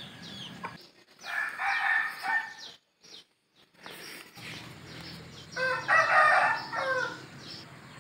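Rooster crowing twice, each crow lasting about a second and a half, the second beginning about five and a half seconds in.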